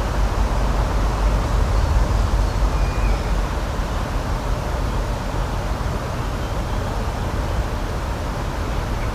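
Steady outdoor rushing noise with a deep rumble underneath, unchanging throughout.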